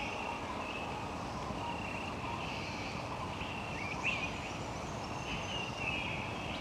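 Birds calling in short, repeated high chirps, a few of them sliding quickly in pitch, over a steady rushing hiss of outdoor ambience.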